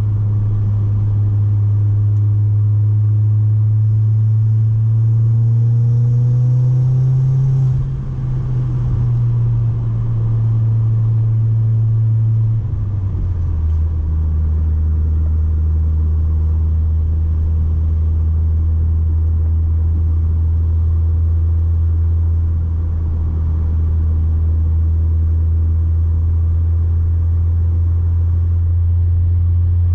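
The ECS catback exhaust (no resonator) of a B6 Audi A4 1.8T turbo four-cylinder drones steadily under driving. Its pitch climbs over a few seconds, drops off about eight seconds in, and settles to a deeper steady drone about thirteen seconds in.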